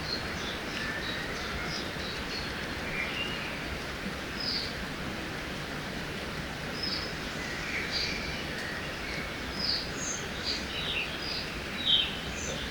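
Forest ambience: many small birds chirping and calling in short, scattered notes over a steady rush of river water.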